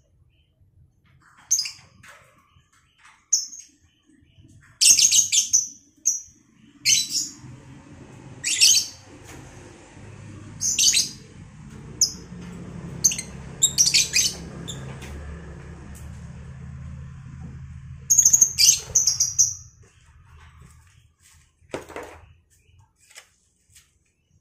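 A pair of lovebirds giving short, shrill, high-pitched chirps at irregular intervals, some in quick clusters of two or three.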